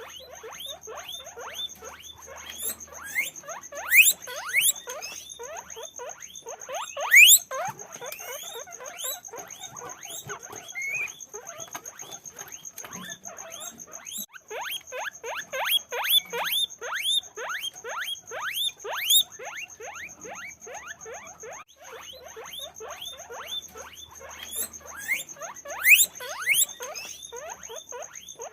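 Guinea pigs squeaking: a rapid, continuous run of short squeaks that slide downward in pitch, several a second, with a few louder squeals standing out.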